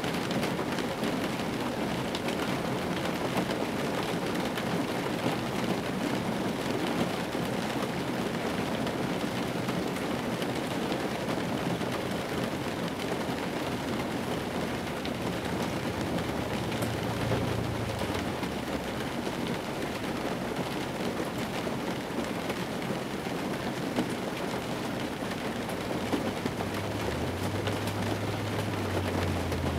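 Steady rain falling on the roof and windshield of an old car, heard from inside the cabin. A low rumble swells briefly a little past halfway and again near the end.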